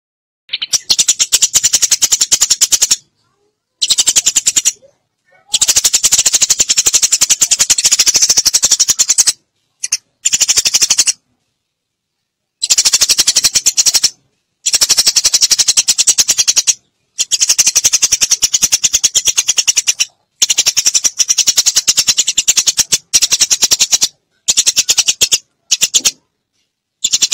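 Eurasian tree sparrows chattering: fast runs of harsh chirps in bursts of one to four seconds, broken by short gaps of dead silence, a lure recording made to draw in sparrows.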